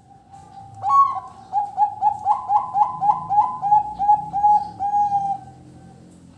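Zebra dove (perkutut) singing. A soft drawn-out coo leads into a loud note about a second in, then a quick run of about a dozen short cooing notes, roughly four a second, ending on a held note that fades.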